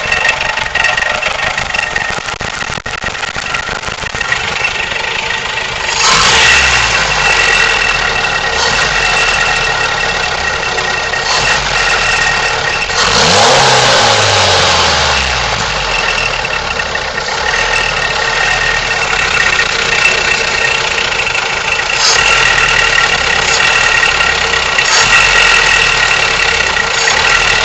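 Toyota 3T-C four-cylinder engine running with a rattle, which the owner thinks sounds like a timing chain. It gets louder about six seconds in, and around thirteen seconds a rev falls away.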